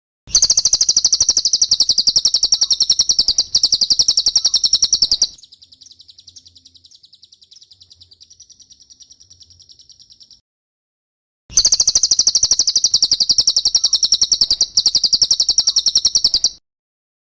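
Cililin bird singing: a rapid, high-pitched chattering trill in a loud stretch of about five seconds, then a softer trill for about five seconds, a short pause, and another loud five-second trill.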